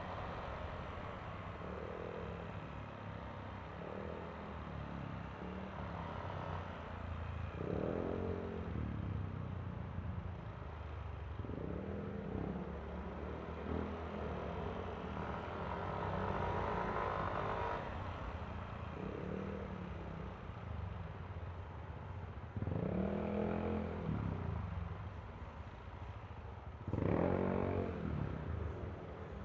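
Yamaha Aerox V3 scooter's 155 cc single-cylinder engine running while riding, over steady road rumble. The engine note swells louder several times, with rising and falling pitch.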